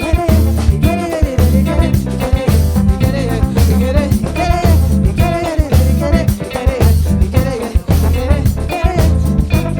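Samba-groove band playing: drum kit and bass drive a steady beat under a gliding melody line.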